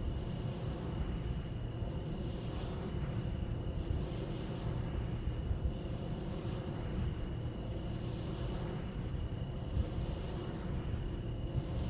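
Steady wind noise, mostly a low rumble, with a thin steady high tone running above it.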